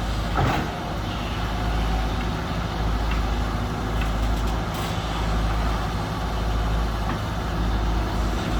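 Heavy diesel engines of an excavator and dump truck running steadily, with a brief knock about half a second in.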